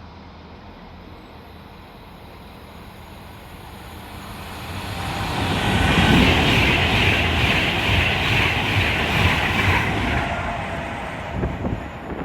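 Class 390 Pendolino electric train passing through the station at speed: a rush of wheel and air noise that builds over a couple of seconds, stays loud for about four seconds, then fades, with a few sharp knocks near the end.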